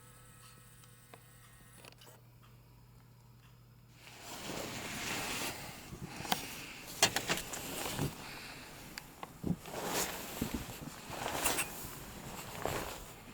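Someone wading through deep powdery snow: irregular crunching and swishing steps with clothing rustle, starting about four seconds in after a few seconds of faint steady hum.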